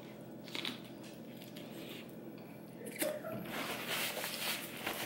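Crunchy bite into a romaine-lettuce-wrap taco, with wet chewing. From about three seconds in there is crackly rustling of a paper towel as fingers are wiped.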